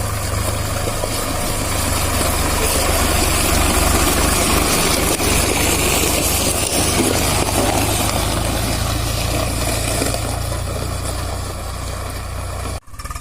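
Heavy diesel engine running steadily. It grows a little louder over the first few seconds and then holds, with a brief dropout near the end.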